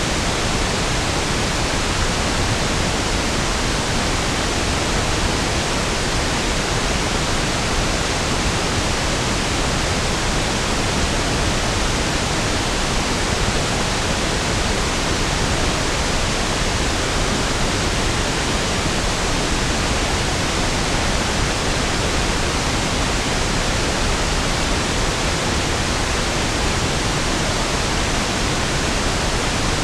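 Steady pink noise (1/f noise): an even, unchanging hiss spread across all pitches, smoother and deeper than white noise, with no events or changes.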